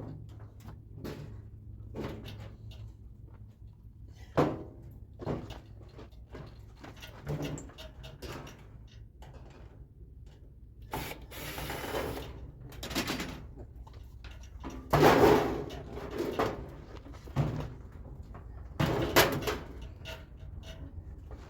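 Scattered knocks, clunks and scraping of sheet-metal parts being handled and pulled out of a dismantled microwave oven, with a few longer scrapes and a steady low hum underneath.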